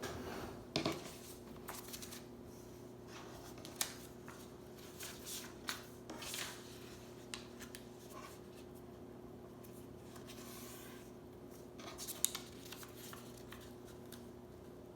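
A sheet of paper being folded and creased by hand: scattered rustles and crinkles, with a few sharp ticks and taps, heaviest near the start and again about twelve seconds in.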